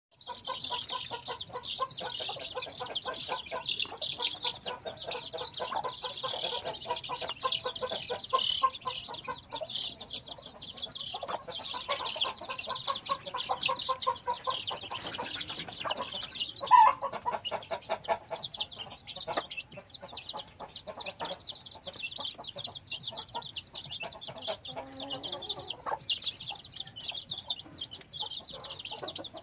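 Chickens clucking over a constant high-pitched chatter of many birds, with one louder call about 17 seconds in.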